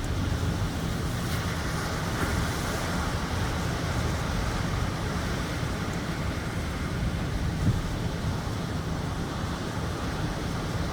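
East Sea waves washing in as a steady surf, with wind buffeting the microphone in a low rumble.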